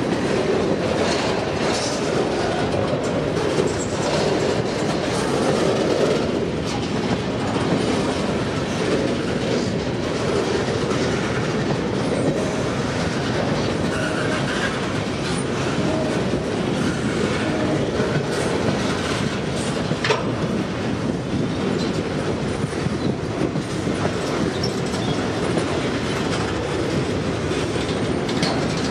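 A train running along the track: a steady, loud rumble of wheels on rail, with one sharp click about twenty seconds in.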